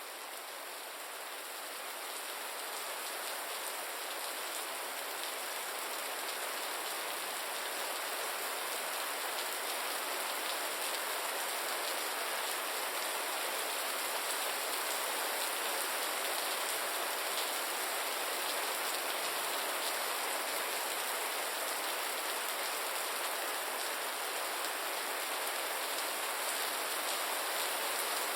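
Steady rain falling, a dense even hiss with fine patter of drops, fading in over the first few seconds and then holding level.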